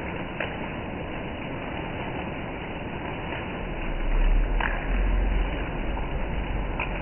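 Heavy rain falling on trees and foliage, a steady even hiss. About four seconds in, a low rumble comes in and the sound gets louder.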